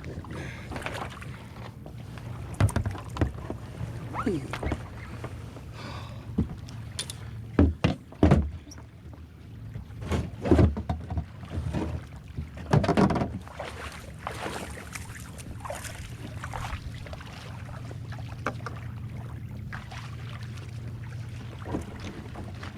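Kayak on open water: water splashing and lapping around the boat under a steady low rumble of wind, with several louder splashes or knocks of paddle and hull at uneven intervals.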